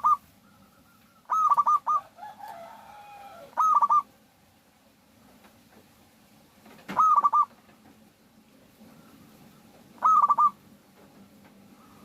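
Zebra dove (perkutut) cooing: short phrases of rapid staccato notes, repeated four times about three seconds apart. A fainter, falling call sounds between the second and third phrases.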